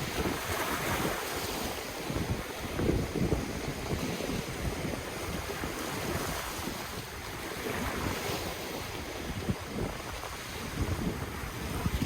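Ocean waves washing in, a steady surf hiss that swells and eases every few seconds, with wind buffeting the microphone in low, irregular rumbles.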